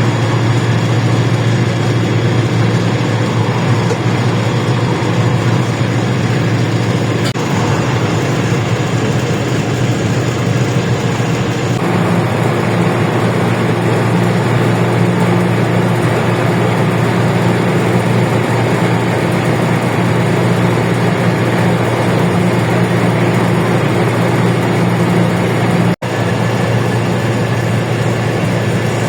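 LiAZ-677M bus's V8 petrol engine running steadily under way, heard from inside the cabin as a deep, even hum. Its note changes slightly about twelve seconds in, and the sound cuts out for an instant near the end.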